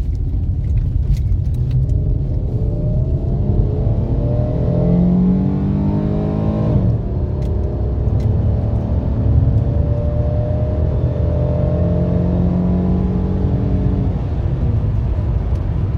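Dodge Charger engine pulling under hard acceleration, its pitch climbing, dropping sharply about seven seconds in as it shifts up, then climbing again until it falls back near the end, over a steady low rumble. It runs smoothly, without the jerking of the misfire it has been showing.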